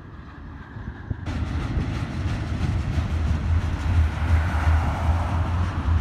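Double-stack container train rolling past on steel wheels: a steady low rumble and rail noise that grows louder about a second in. A road vehicle passing close in front adds a swell of tyre noise around four to five seconds in.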